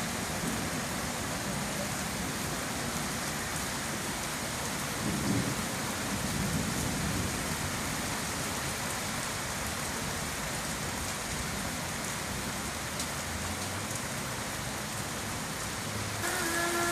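Rain falling steadily in a thunderstorm, with a low rumble of thunder swelling about five seconds in.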